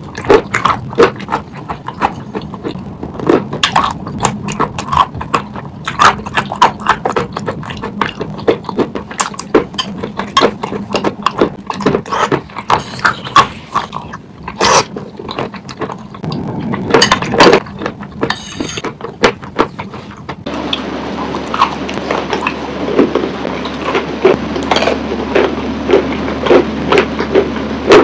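Close-up chewing of wet chalk paste: irregular wet crunching and mouth clicks. About two-thirds of the way through, the sound changes to another recording, with a steady low hum under the crunching.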